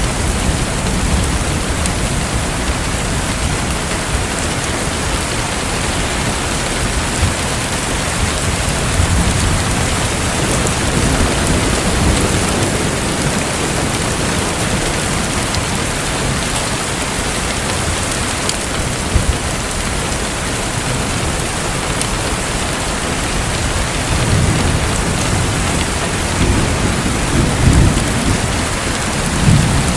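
Steady rushing water noise, dense and even like heavy rain, with low rumbles that swell several times in the last few seconds.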